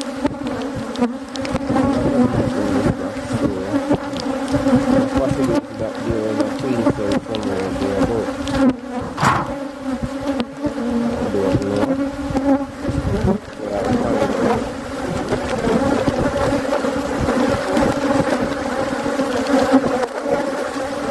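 Many honeybees buzzing around an opened hive: a steady hum made of several wavering wingbeat tones, with a few faint knocks mixed in.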